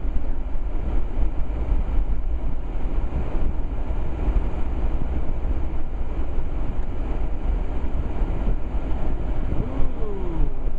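Steady road and engine noise inside the cabin of a four-wheel-drive vehicle driving on a snow-covered road: a deep, continuous rumble under an even hiss. A short gliding tone comes near the end.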